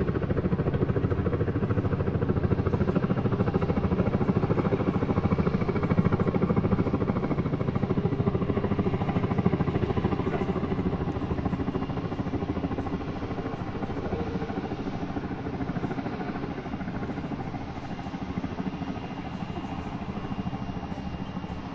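Steady engine noise that is loud at first, then fades gradually over the second half.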